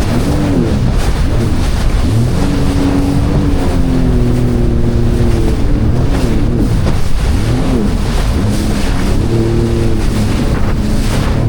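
Jet ski engine running under way at sea, its pitch rising and falling repeatedly as the throttle and the hull's contact with the waves change, over loud wind on the microphone and water spray.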